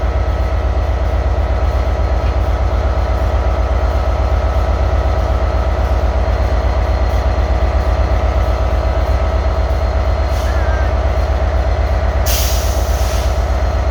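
Class 67 diesel locomotive's two-stroke V12 engine idling steadily with a deep, rapid throb. Near the end a loud burst of air hiss sets in, typical of the brakes' compressed air venting.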